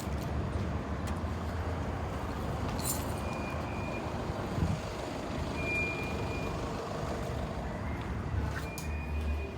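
Motor vehicle on the move, with a steady low rumble of engine and road noise, and three short high beeps spread a few seconds apart.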